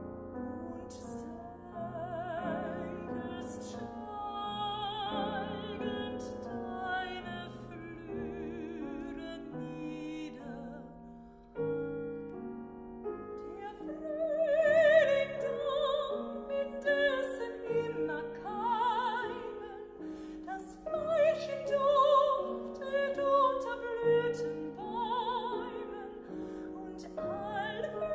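Mezzo-soprano singing a German art song (Lied) with piano accompaniment, the voice carrying a marked vibrato. The singing is soft at first and grows louder from about halfway through.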